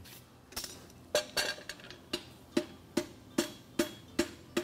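Hammer blows on a hot steel horseshoe heel against an anvil, as the heel is reforged. Regular strikes about two to three a second, each with a short metallic ring.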